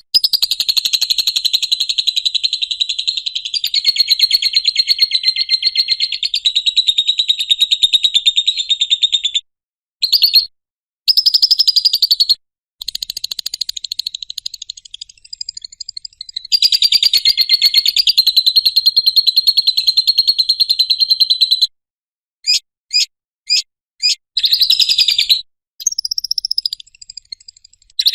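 Lovebird ngekek: long runs of rapid chattering notes, several seconds each, broken by short pauses and a few brief bursts near the end.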